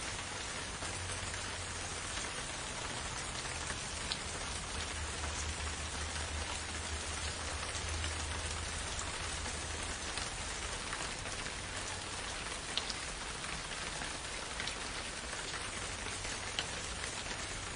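Steady rain falling, a dense even patter with individual drops ticking sharply now and then, over a low rumble.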